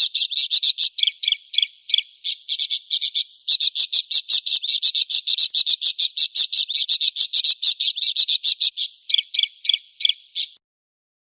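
Recorded small songbird chattering: a fast run of short, sharp high notes, about ten a second, with a brief falter and then breaking off near the end.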